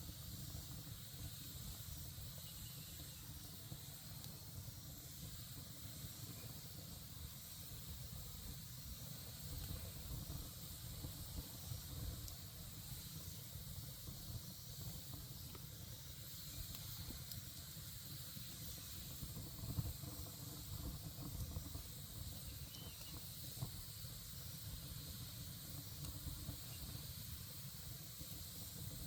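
Wood campfire burning with a steady hiss and low rumble, and a couple of faint pops.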